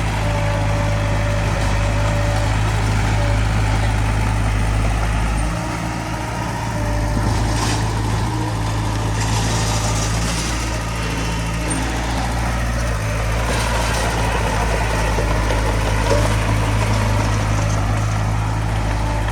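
Heavy diesel engine of earthmoving machinery running steadily, dipping briefly about six seconds in.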